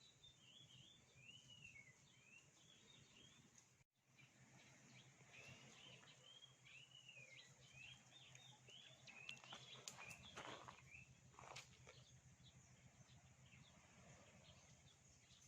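Faint bird chirping: quick strings of rising-and-falling notes in two bouts, the second longer, with two brief rustling knocks about ten and eleven and a half seconds in.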